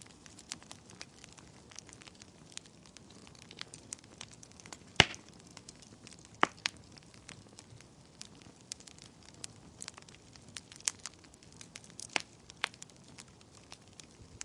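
Wood fire burning in a fireplace, crackling with irregular sharp pops over a faint hiss; the loudest pop comes about five seconds in.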